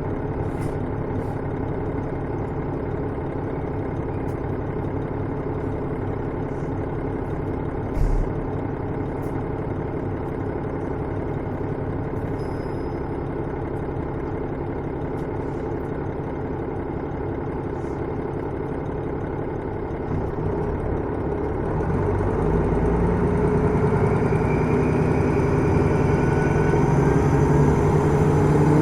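Diesel engine of a KiHa 110-series railcar (KiHa 112-3), heard on board, running steadily at a low, even level with a few clicks and a single thump about eight seconds in. About twenty seconds in the engine speeds up and grows louder with a rising pitch, as the railcar pulls away under power.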